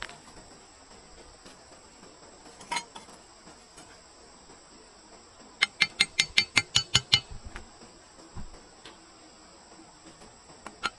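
A fast run of about ten sharp metallic clinks, roughly six a second, lasting about a second and a half past the middle, with a single clink earlier. A steady high insect chirring runs underneath.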